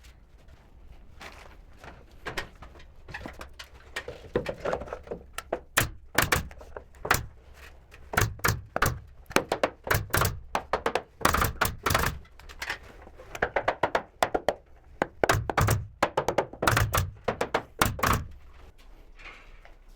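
An irregular run of sharp knocks and thunks on wooden boards during carpentry, some coming two in quick succession.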